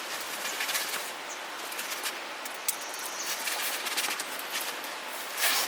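Campfire crackling: a steady hiss with many sharp pops and snaps scattered through it, a little louder near the end.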